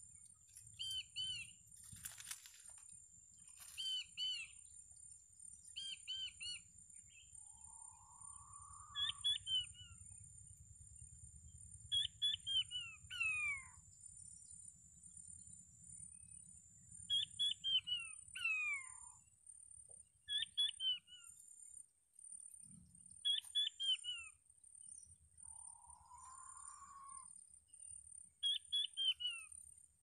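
Small birds calling: clusters of two to four short, sharp descending chirps every second or two, with a softer rising whistle twice. A steady high-pitched hum runs underneath.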